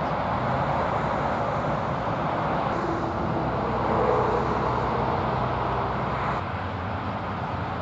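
Steady road traffic noise, with a vehicle passing that swells slightly about halfway through.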